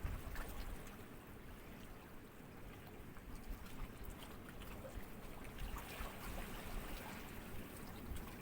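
Gentle sea ripples lapping softly, a faint trickling with many small splashes over a low rumble.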